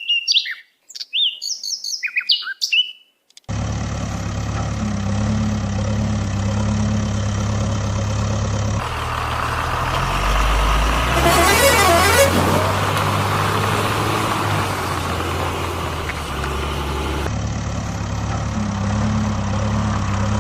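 Birds chirping for about three seconds, then a steady vehicle engine hum starts suddenly. Its tone switches abruptly twice, with a short rising-and-falling sweep near the middle.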